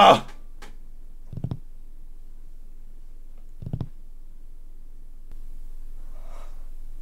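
Two soft, low thuds about two seconds apart over faint room tone, with a low steady hum coming in near the end.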